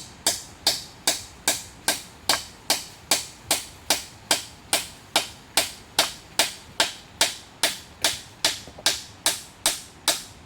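Steady, rapid hammer blows, about two and a half strikes a second, each sharp with a short ring, stopping near the end.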